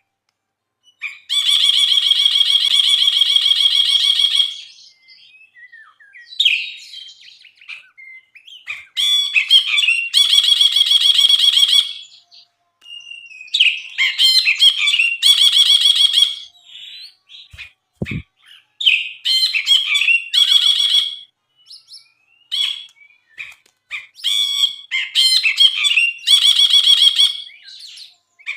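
Brinji, a bulbul, singing: fast, rattling trills lasting one to three seconds each, repeated with short gaps between. A brief low thump about 18 seconds in.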